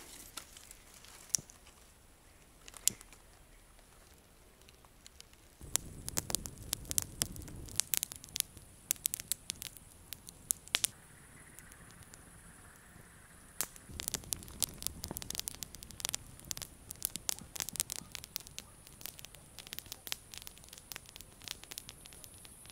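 Campfire crackling and popping, sharp snaps coming thick in two spells, the first about a quarter of the way in and the second past the middle, with a low rumble under them.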